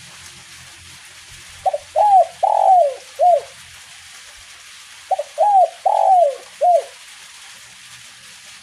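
Spotted dove (derkuku) cooing: two phrases of four or five low coo notes, each with a longer, louder note near the middle, about three seconds apart. A faint hiss of light drizzle runs underneath.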